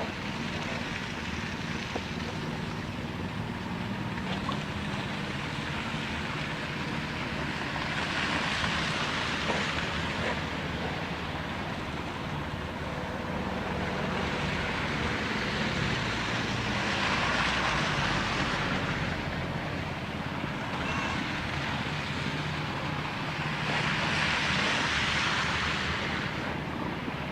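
An engine running steadily, with three long swells of rushing noise over it.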